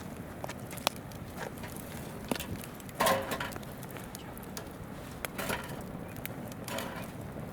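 Wood campfire crackling with scattered sharp pops and snaps, the loudest a short burst about three seconds in, over the steady babble of a river.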